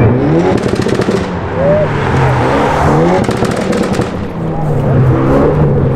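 A car engine revving up three times, its pitch climbing each time, with a burst of crackling exhaust pops after each of the first two revs.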